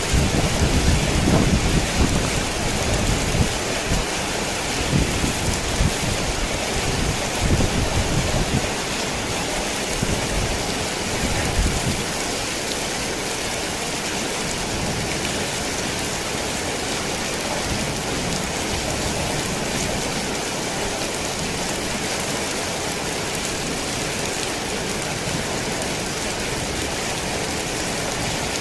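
Heavy rain falling steadily on a tin roof, with a long roll of thunder rumbling low through the first twelve seconds or so and then fading away, leaving only the rain.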